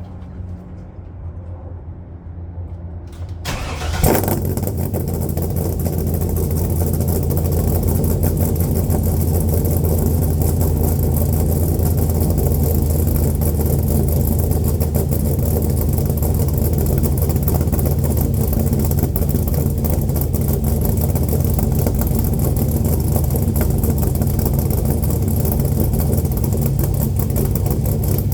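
Chrysler 440 big-block V8 cold start through dual exhaust with no catalytic converters: it cranks for about four seconds, then catches with a sudden loud burst and settles into a steady, rumbling fast idle.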